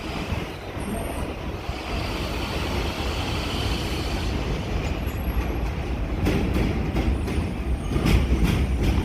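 New York City subway train running past on the track, a steady low rumble with a faint high squeal from the wheels in the first half and sharp wheel clicks over the rail joints in the second half.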